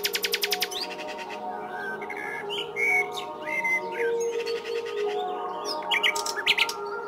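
Small birds chirping in short, scattered calls over background music of held notes. A fast, even ticking stops just under a second in.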